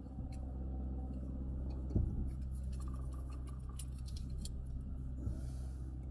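Rubber fuel hose being trimmed with a cutting tool: a sharp knock about two seconds in, then a run of small snipping and clicking sounds, over a steady low hum.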